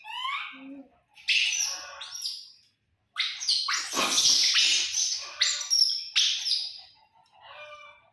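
Baby monkeys crying with a string of high-pitched squeals. The cries run together, loudest and harshest between about three and six and a half seconds in, then fade toward the end.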